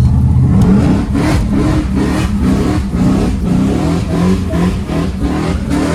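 Straight-piped LS V8 in a VS Holden Commodore under hard acceleration, heard inside the cabin. The engine note climbs and falls over and over, about twice a second, as the throttle works.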